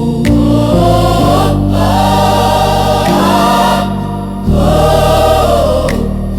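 Gospel choir singing long, held chords over a steady bass accompaniment, in two phrases with a short dip between them about halfway through.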